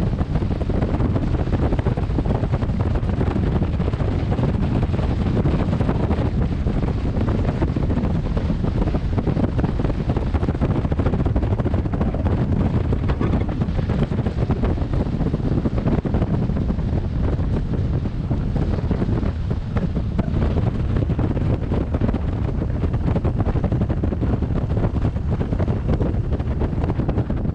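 Steady, loud wind noise buffeting a helmet-mounted camera's microphone while riding a motorcycle, with most of the rumble low down.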